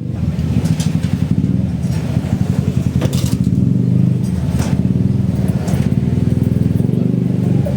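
An engine running steadily with a low, fast-pulsing drone, with a few faint clicks over it.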